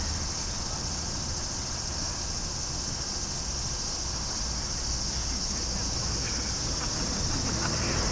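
Steady, high-pitched drone of insects, unbroken, with a low rumble underneath.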